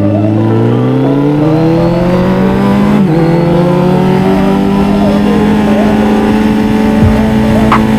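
Kawasaki Z900's inline-four engine accelerating, its pitch rising, with a gear change about three seconds in, after which the note settles into a steady cruising drone.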